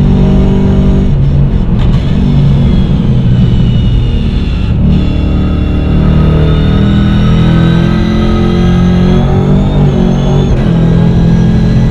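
Holden Commodore VF's V8 engine heard from inside the cabin under hard track driving. The revs rise steadily under acceleration through the middle, and the note breaks briefly with gear changes through the sequential gearbox about a second in and near the end.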